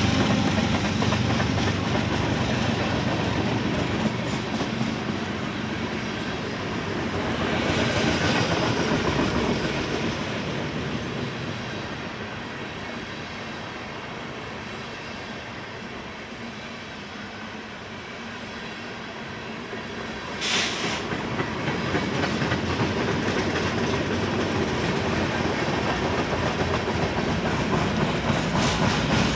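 Manifest freight train's cars rolling past, with steady wheel rumble and clicking over the rail joints. A brief wheel squeal comes about eight seconds in, and a short, sharp burst of high-pitched noise comes about twenty seconds in.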